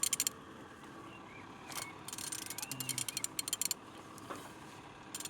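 Ratchet wrench clicking in quick runs as the crankshaft of an Opel A14XER 1.4-litre petrol engine is turned over by hand: a short run at the start, a longer run from about two seconds in, and another at the end. The engine turns freely, a sign it is not seized.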